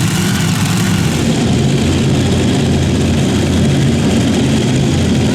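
Super modified pulling tractor engines running loud and steady, with a low, even engine tone under a dense noise.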